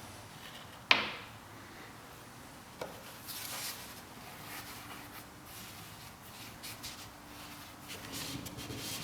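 A sharp knock with a short ring about a second in, then light clicks and rubbing from small parts being handled, over a faint steady hum.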